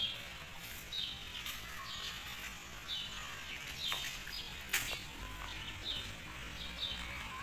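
A small bird calling: short, high chirps that drop slightly in pitch, repeated about once or twice a second, with a few sharp clicks in between.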